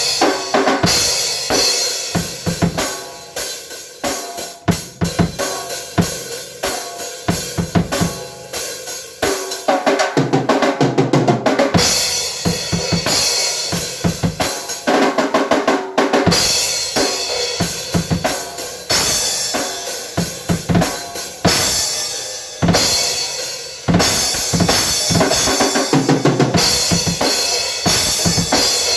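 Drum kit being played: fast, busy strikes on the bass drum and snare under a continuous wash of cymbals.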